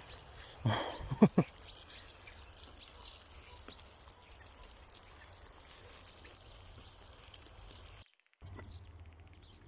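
Food in a kazan sizzling steadily with a few sharp knocks about a second in; after a brief cut near the end, birds chirping.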